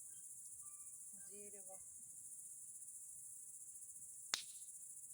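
Crickets chirring steadily and high-pitched, with one sharp click about four seconds in.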